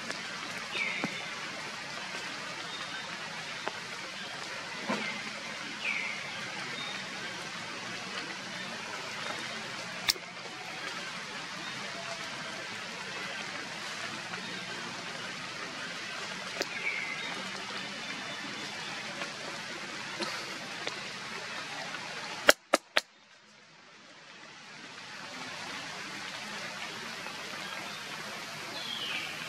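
Steady hiss of heavy rain, with a few short, falling chirps over it. About three-quarters through come three sharp clicks, after which the rain sound drops away and slowly fades back in.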